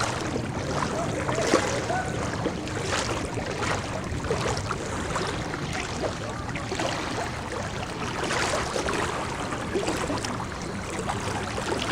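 Knee-deep floodwater sloshing and splashing steadily as people wade through it, with irregular sharp splashes throughout.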